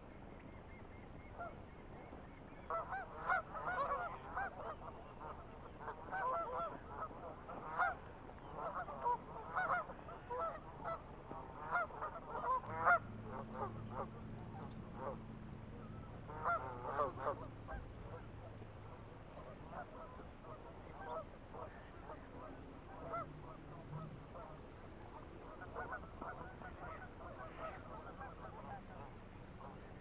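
Water birds calling: a run of short, repeated calls, thick through the first half and thinning out after about 17 s. A low steady hum joins in about halfway through.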